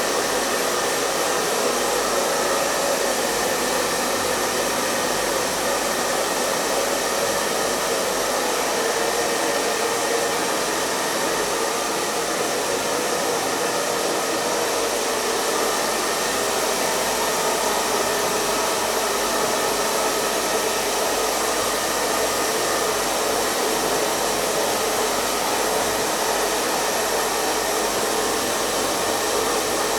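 Hair dryer running steadily, a continuous whooshing blow of air over its motor's faint whine.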